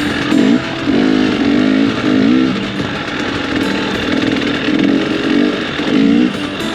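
Motorcycle engine on the move, its pitch rising and falling over and over as the throttle is opened and closed.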